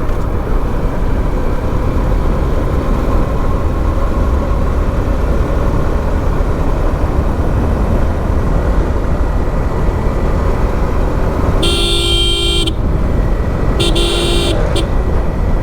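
Steady rumble of a moving motorbike, engine and wind together. A vehicle horn sounds twice near the end: the first blast about a second long, the second shorter and followed by a couple of quick toots.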